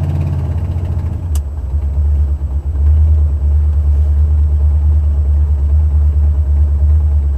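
Buick 455 Stage-1 V8 running, heard inside the car's cabin with the windows up: a steady low rumble, with a single click about a second and a half in. The #7 exhaust header gasket has broken off, leaving an exhaust leak.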